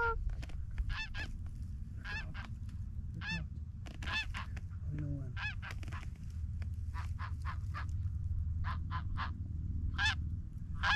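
Wild geese honking: short, high honks every second or so, often two or three in quick succession, over a steady low rumble.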